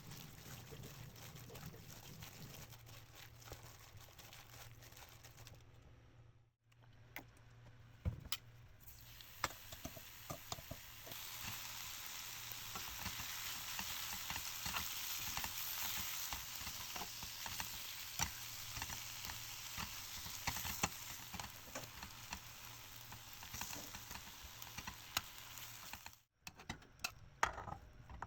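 Marinated beef bulgogi sizzling as it cooks, with frequent light clicks and taps of a utensil stirring it in the pot. The sizzle cuts out briefly twice and gets louder partway through.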